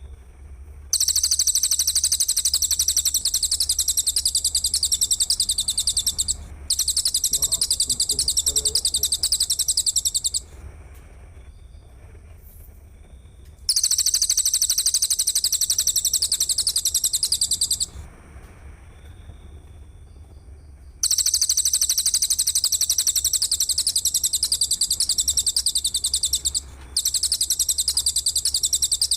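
Insect stridulation for bird-training playback: loud, very high-pitched buzzing trills made of rapid ticks, in five long bursts of about four to six seconds each with short pauses between. A steady low hum runs underneath.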